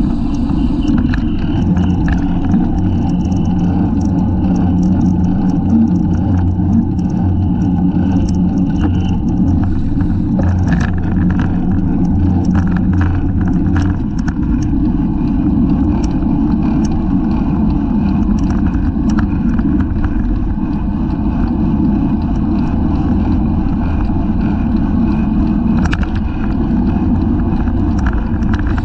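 Wind rushing over the microphone of a bike-mounted camera during a criterium race, with road and tyre noise and scattered clicks and rattles from the bicycle. A low hum runs through the first half and fades out around the middle.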